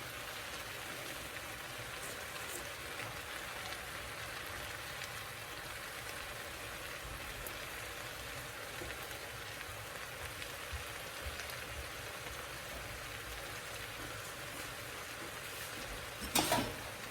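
Shrimp and calamari frying in a pan: a steady sizzle, with a brief loud clatter near the end.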